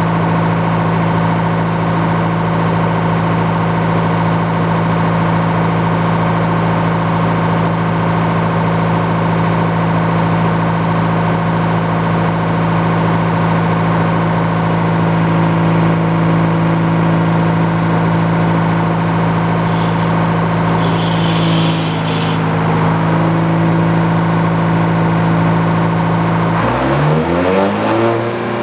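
Engine powering an old Frick sawmill, running steadily at working speed. A little past the middle its pitch dips slightly, and near the end it revs up sharply.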